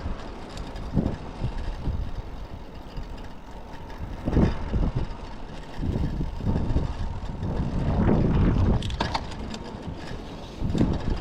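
Typhoon wind buffeting the microphone in irregular gusts, a low rumbling roar that rises and falls every second or two.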